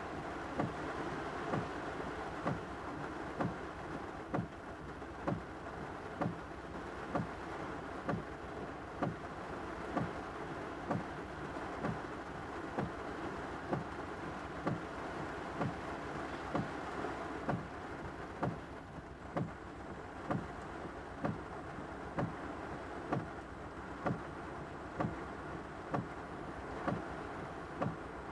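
Rain falling on a car, a steady noisy wash, with a short sharp click repeating about once a second.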